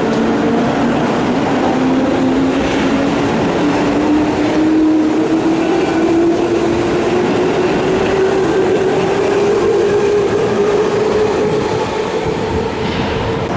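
Electric commuter train pulling away from a platform, its motor whine rising steadily in pitch as it accelerates, over the rumble of the wheels on the rails.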